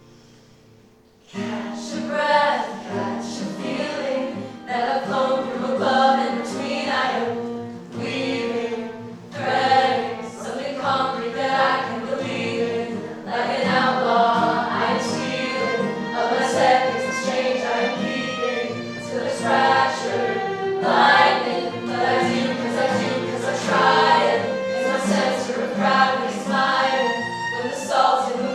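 A group of voices singing together in harmony. They come in suddenly about a second in, after a fading sustained note, and keep singing.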